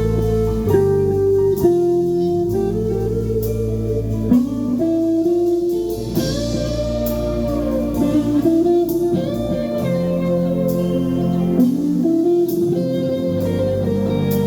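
Live rock band playing: an electric guitar plays a melodic lead with bent notes over held bass notes and drums, with regular cymbal hits.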